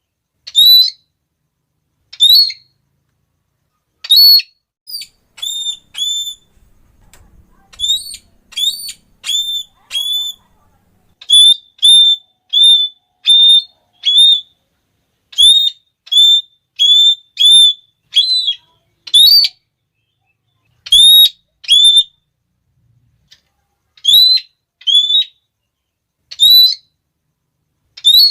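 Red-cheeked parrot calling: loud, shrill, short 'klee' notes, repeated singly and in quick runs of two to four, with brief gaps between runs.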